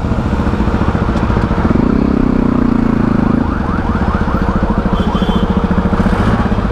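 KTM Duke 390 single-cylinder motorcycle engine idling at a standstill, its note swelling briefly about two seconds in, with surrounding street traffic.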